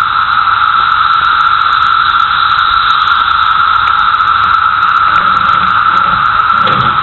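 A dense chorus of cicadas droning loudly and steadily, one continuous high buzzing tone without breaks.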